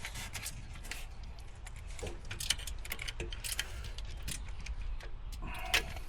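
Scattered light metallic clinks and taps of hand tools and engine parts being handled during reassembly, over a low steady hum.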